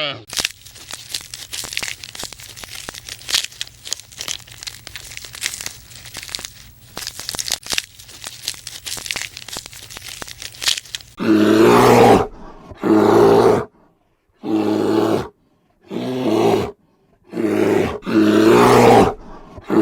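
Crackling, crunching noise over a low hum for about eleven seconds. Then a run of loud animal calls begins, each about a second long, roughly one every one and a half seconds.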